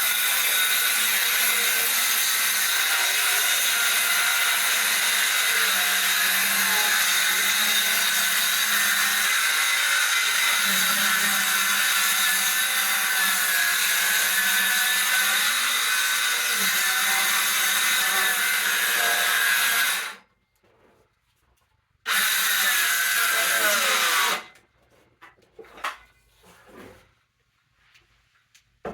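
Electric handheld saw cutting lengthwise along a wooden board, the motor running steadily under load for about twenty seconds before stopping abruptly. It starts again for a short cut of about two seconds and winds down. A few light knocks follow near the end.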